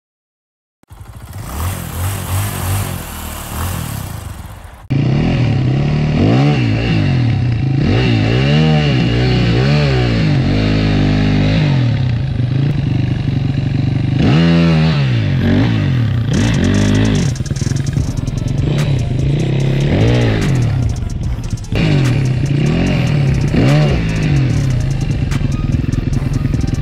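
Single-cylinder four-stroke engine of a 2006 Yamaha WR450F enduro bike, revved up and down again and again as it is worked up a rock step, the pitch rising and falling in repeated swoops, with some clattering near the end. A different, hissier sound fills the first few seconds and cuts off suddenly before the engine comes in.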